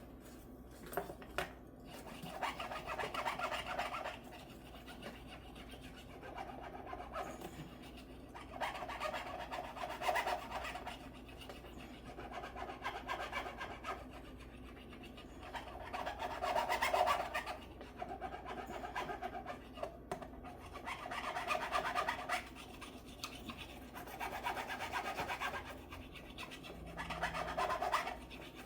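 Hand abrasive work on a guitar, sanding or filing: scratchy back-and-forth rubbing in repeated bouts of about two seconds, with short pauses between them.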